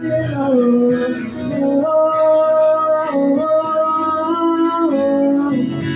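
Woman singing long held notes that slide from pitch to pitch, with guitar accompaniment, in a live solo singer-songwriter performance.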